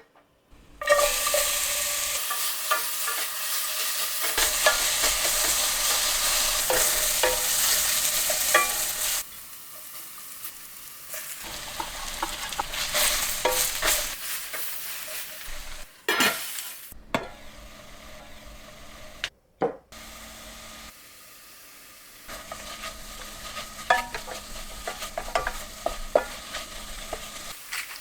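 Mushrooms frying in a pan, sizzling as a spatula stirs them with small scraping and tapping clicks against the pan. The sizzle is loud for the first several seconds, then quieter over a few short stretches that cut in and out abruptly.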